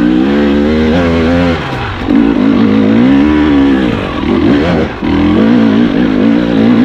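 Enduro dirt bike engine revving hard, the pitch rising and falling several times as the throttle is worked.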